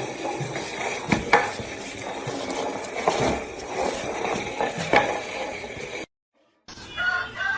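Clattering and scraping with several sharp clicks, like dishes being knocked about. After a brief break, a cat starts a long, drawn-out meow near the end.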